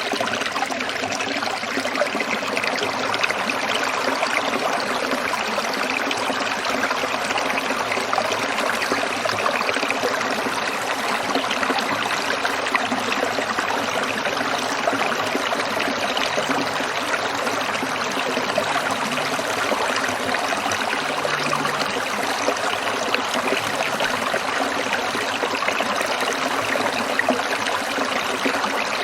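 A small stream trickling and burbling over rocks, a steady, even rush of water.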